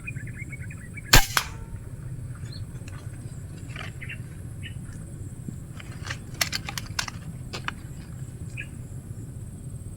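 A single shot from a PCP air rifle about a second in: one sharp, loud crack with a short ring after it. Several lighter clicks follow in the second half.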